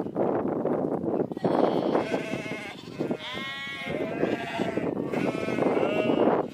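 Sheep bleating, several calls in turn with one long wavering bleat in the middle, over a steady rushing background noise.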